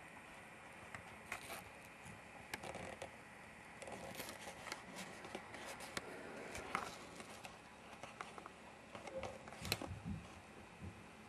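Faint rustling with scattered light clicks and taps, the sharpest tap near the end.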